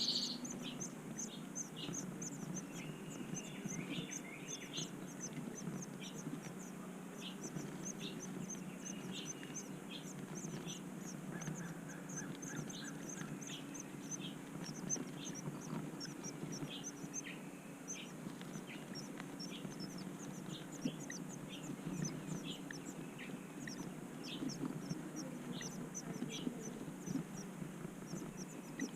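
Birds chirping: a long run of short, high-pitched chirps, about two a second, with some lower calls mixed in, over a low steady hum.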